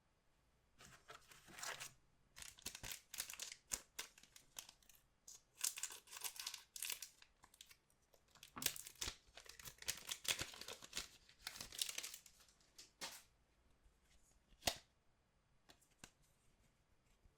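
Trading-card pack wrappers being torn open and crinkled, a run of short rustling tears. A single sharp click near the end.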